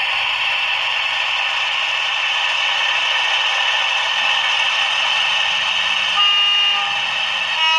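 Sound decoder of an H0 model NS 2200-class diesel locomotive playing its engine running steadily, through the model's small loudspeaker with no bass. A horn sounds twice near the end: a half-second toot, then a second short blast.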